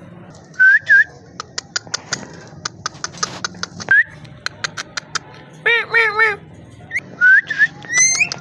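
Pet parrot giving short rising whistles, several of them in pairs, among many sharp clicks. A little past halfway it makes three quick arching, voice-like calls.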